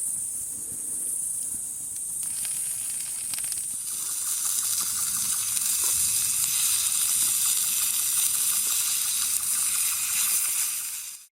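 A chorus of insects, cicadas in summer, buzzing steadily in a high shrill drone. About four seconds in, a louder, denser sizzling call joins and keeps on until the sound cuts off suddenly near the end.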